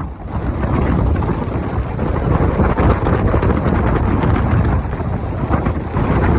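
Strong wind buffeting the microphone aboard a sailing yacht: a steady, loud rumble with gusty rises and falls.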